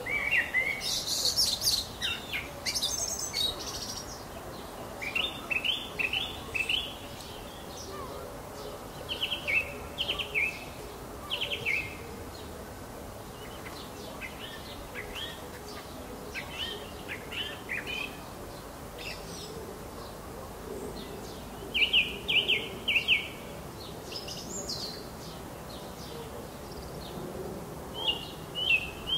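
Songbirds singing in short phrases of a few quick, sharp notes, with a new phrase every couple of seconds, over a steady background noise.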